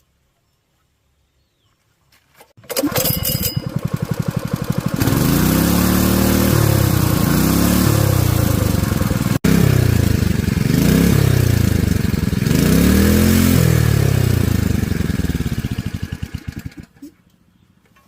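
Honda GX200 single-cylinder four-stroke engine starting up and running, revved up and down several times, then dying away near the end.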